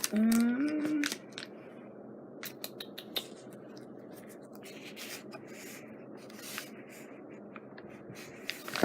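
Paper sticker sheets being handled: faint rustling with a few scattered light clicks and taps.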